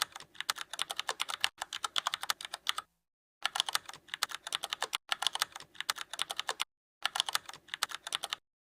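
Rapid, even clicking like typing on a keyboard, in three runs separated by short pauses, stopping shortly before the end.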